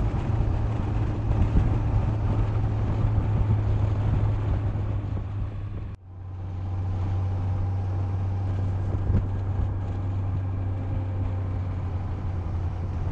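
Yamaha FJR sport-touring motorcycle's inline-four cruising at steady speed, a constant low engine drone under wind noise from riding. The sound breaks off sharply for a moment about six seconds in and picks up again.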